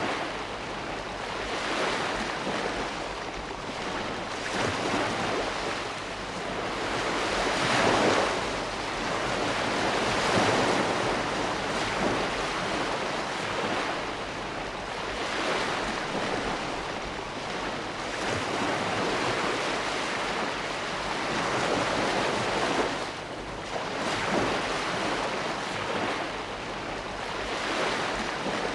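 Ocean surf: waves breaking and washing up the shore, a continuous rushing noise that swells and eases every few seconds.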